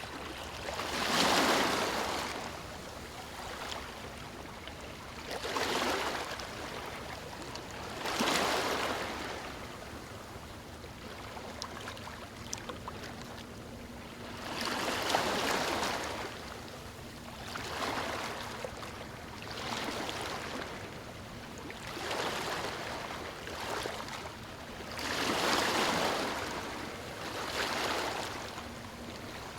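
Small waves breaking and washing over stones, each swell rising and falling every few seconds over a steady background wash.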